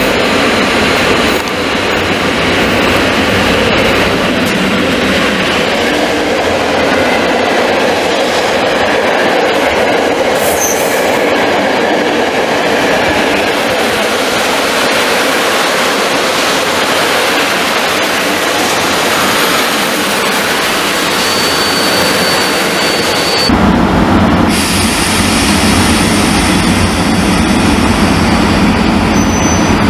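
A loco-hauled passenger train on an EP08 electric locomotive rolls along a platform, steady wheel-on-rail noise with wheel squeal as it slows. A thin high squeal comes about 21 seconds in. About 23 seconds in the sound changes abruptly to the lower, heavier running of the EP08 locomotive close by as the train pulls away.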